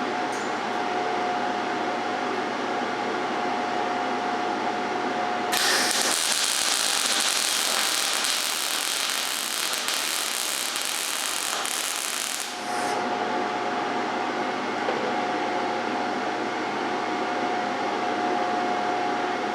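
MIG welding arc crackling for about seven seconds as a bead is run with wire-feed speed set to 100, which the welder then judges not fast enough. A steady hum is heard before and after.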